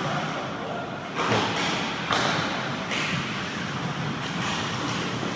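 Ice hockey play: three sharp hits about a second apart over a steady rink hiss.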